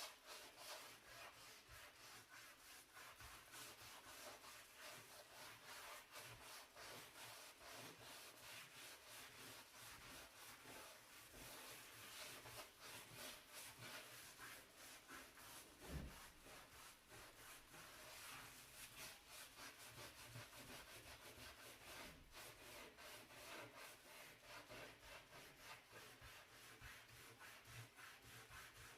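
Brush scrubbing a dirty stove surface in quick, repeated strokes, faint throughout. There is a single knock about halfway through.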